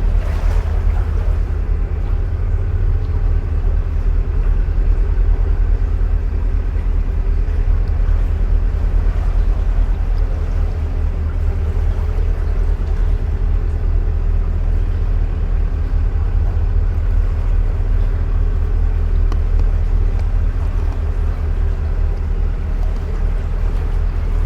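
Narrowboat's diesel engine running steadily under way, a low, even throb.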